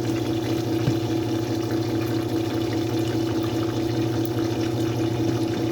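Food sizzling steadily in hot oil in a covered pan on the stove: an even frying hiss with faint scattered crackles, over a steady low hum.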